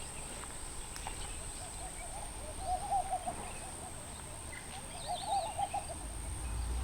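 Birds calling in the wadi: runs of short, low, arched notes in quick succession, heard twice, about two and a half and five seconds in.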